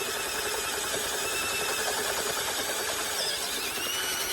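Hand-held power drill running at low speed, its twist bit cutting into metal through an interrupted hole, with a faint high-pitched squeal from the cut that rises near the end.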